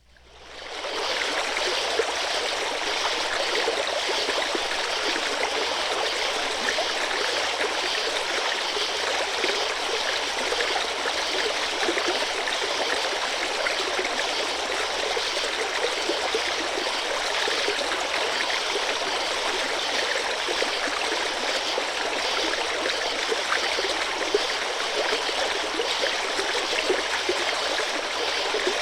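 Babbling brook: water running and gurgling over stones, fading in over the first second and then holding steady, with crickets faintly in the background.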